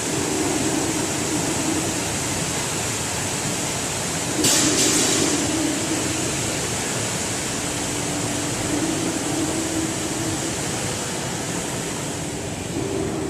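Automatic screen washout booth running: a steady hiss of water spray over a low machine hum that comes and goes, with a brief, louder hiss about four and a half seconds in.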